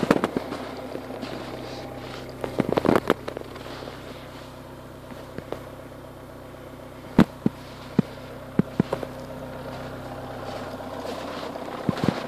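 Renault Mégane 1.9 dCi four-cylinder turbodiesel idling steadily just after a cold start at about −10 °C. Sharp clicks and cracks cut in irregularly: a cluster about three seconds in, several more between seven and nine seconds, and again near the end.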